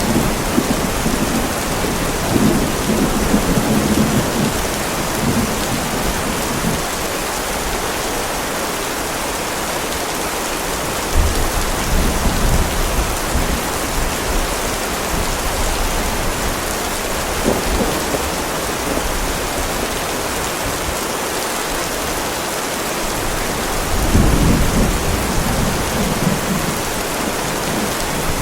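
Heavy rain pouring steadily, with rolls of thunder rumbling low three times: near the start, about eleven seconds in, and again about twenty-four seconds in.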